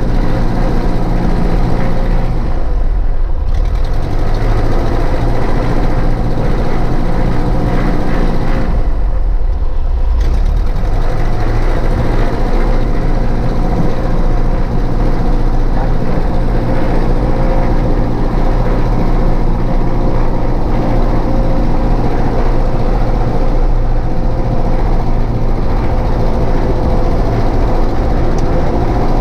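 Cessna 152's four-cylinder Lycoming piston engine and propeller running steadily, heard from the cockpit. The engine note shifts briefly twice, about 3 and 9 seconds in.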